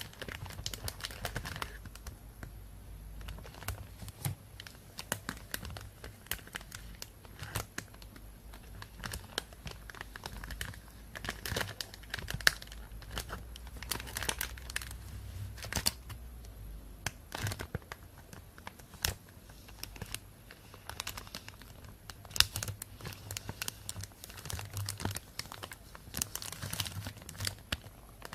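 Plastic bag crinkling and rustling in dense, irregular crackles.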